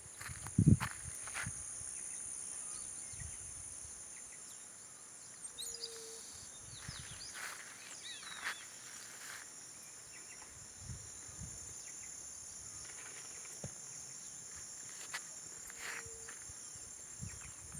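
Steady high-pitched insect chorus, with scattered soft knocks and a louder thump about a second in. A few short bird chirps come around the middle.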